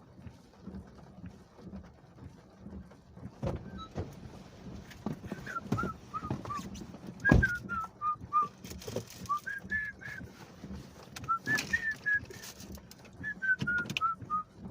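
A person whistling a tune in short notes, mostly in falling phrases, over scattered knocks and thumps.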